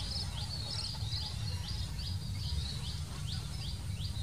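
A small bird calls with a short, high chirp repeated evenly about three times a second, over a steady low rumble.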